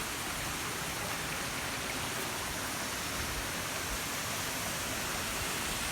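Tall waterfall's water falling and rushing steadily, an even, unbroken hiss of water noise.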